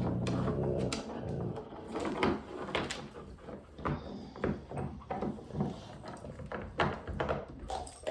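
A dog's low growl for about the first second, then a run of irregular knocks and clicks as the dogs move around the bone.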